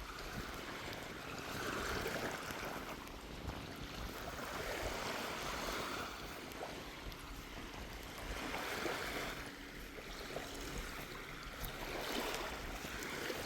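Small waves washing up on a sandy beach, swelling and falling back about every three to four seconds, over a steady low rumble of sea breeze.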